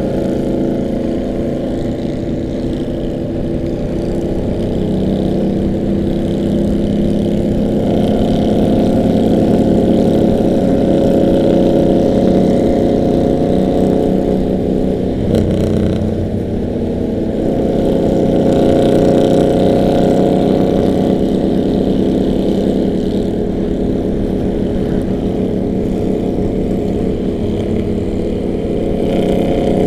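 Motorcycle engine running steadily while riding. Its pitch eases off briefly about halfway through, then rises again as it picks up speed.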